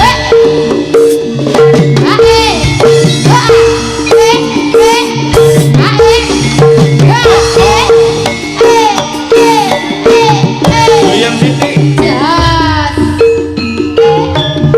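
Javanese jaranan (horse-dance) ensemble music played live: a pitched gong-chime note repeating in a steady pulse over drums, with a high melody line sliding up and down in pitch above it.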